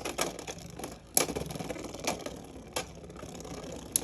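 Beyblade X spinning tops whirring in a plastic stadium and clashing, with sharp clacks of hits, the loudest about a second in and others about every second after.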